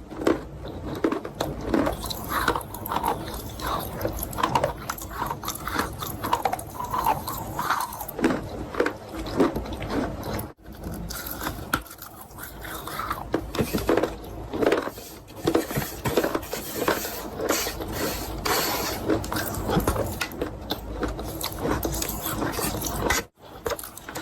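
Close-miked eating of chalk: irregular crunching bites and chewing with wet mouth sounds, with two brief dropouts in the audio.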